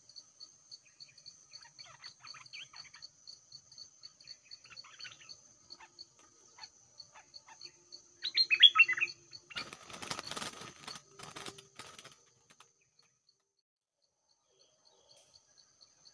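Scattered bird calls over an insect's steady high pulsed chirping, about three pulses a second. About eight seconds in comes a short, loud burst of bird calls, followed by a few seconds of rustling and flapping.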